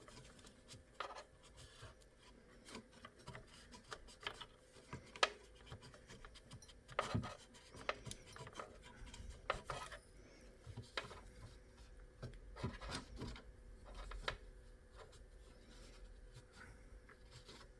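An alcohol cleaning wipe rubbing over a hard surface in short, faint strokes, with scattered light clicks and taps of handling.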